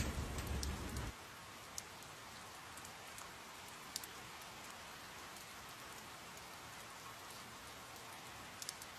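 Steady rain falling on a surface, with a few sharp drip ticks. A low rumble in the first second stops abruptly.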